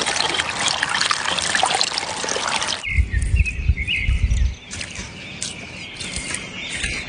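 Splashing, rushing water for nearly three seconds, cut off abruptly, followed by a deep rumble and birds chirping.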